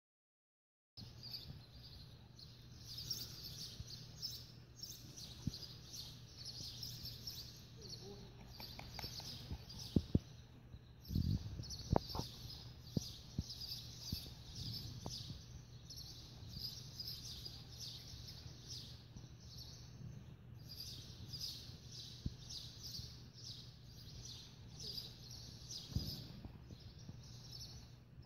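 Birds chirping rapidly and almost without a break, over a steady low hum, with a few sharp knocks about ten to twelve seconds in.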